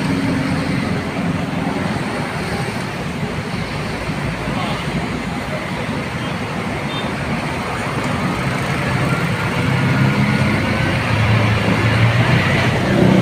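Road traffic on a wet road in the rain: a steady hiss of rain and tyres, with the engine hum of a heavy vehicle, likely a bus, growing louder in the last few seconds as it draws near.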